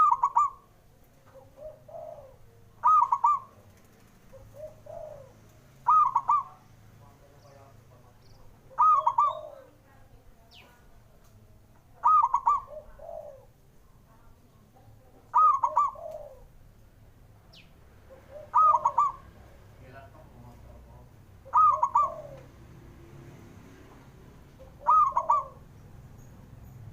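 Zebra dove (perkutut) cooing its song: a short, broken coo phrase repeated about every three seconds, with fainter calls in between.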